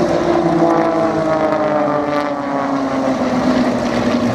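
Propeller-driven aerobatic planes flying past in formation, their engine note sliding steadily down in pitch as they pass.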